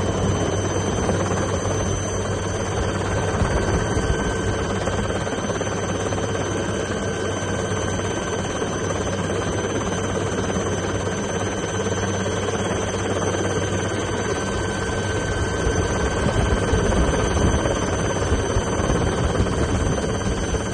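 Cheetah helicopter running steadily, a constant engine and rotor noise with a high steady whine, growing somewhat louder for a few seconds near the end.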